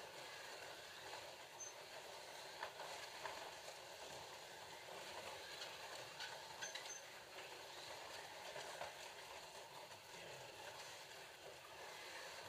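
Ford GT40 slot cars running laps on the track: a steady whir of their small electric motors with light scattered clicks and rattles from the cars in the slots.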